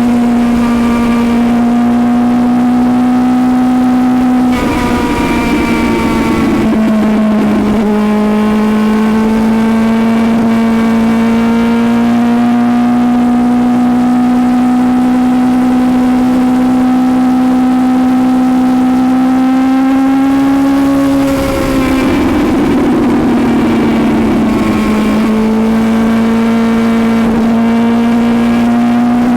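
Suzuki GSX-S750's inline-four engine running at steady road speed, its note holding or creeping slowly upward. The pitch dips twice, about five and about twenty-two seconds in, each time with a short stretch of rougher noise before it settles again.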